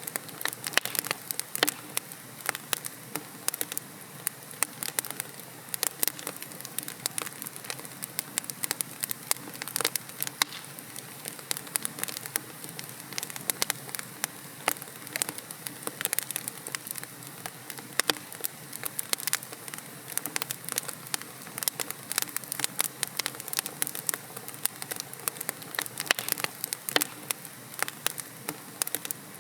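Wood logs burning in a fireplace, with a steady hiss and dense, irregular sharp crackles and pops.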